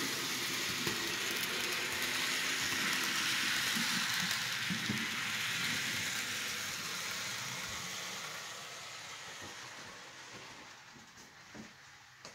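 Model train rolling along the layout track, a steady hiss of wheels on rail that fades as the train moves away.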